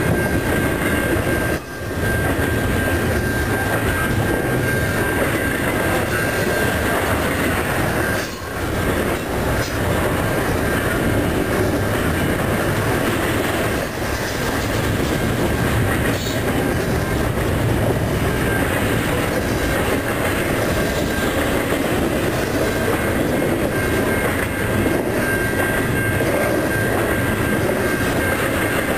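Freight train of double-stack container well cars rolling past close by: a steady, loud rumble of steel wheels on rail. A thin, high, steady wheel squeal sounds over it for several seconds at the start and again near the end.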